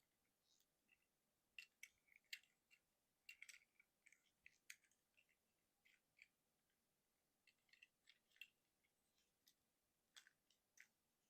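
Faint, irregular plastic clicks and clacks of a Transformers Legacy United Voyager Class Motormaster action figure being handled, its joints and panels shifted during conversion from robot to truck mode.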